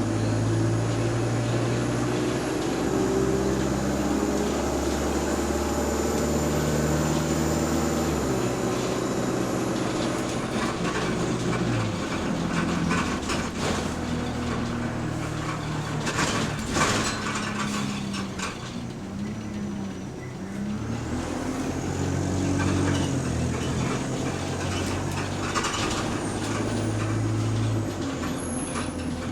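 Bus engine and transmission heard from inside the passenger saloon, the drivetrain note climbing in steps as the bus moves through its gears, with a short hiss of air around two-thirds of the way through and a slow-down before it pulls away and climbs through the gears again.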